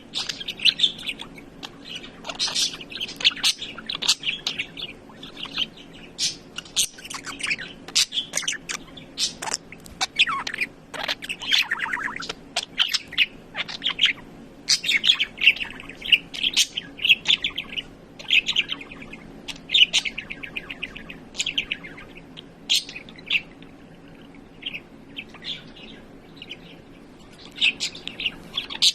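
Budgerigar warbling and chattering: a long run of rapid chirps, buzzy trills and squeaky notes, with a few falling sweeps in the middle.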